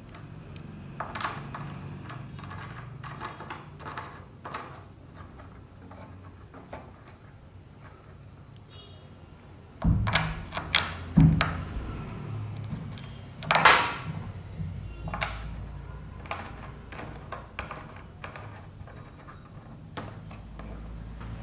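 Knocks, clicks and clatter of washing machine trolley parts being handled and fitted together by hand, with a few louder thunks about ten to fourteen seconds in.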